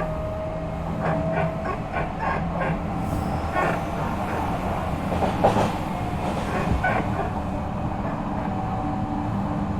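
Odakyu 3000 series electric train running, heard from inside a motor car. A faint whine from its Mitsubishi IGBT VVVF drive and fully enclosed traction motors climbs slowly in pitch over the steady running noise, with scattered clicks as the wheels cross rail joints.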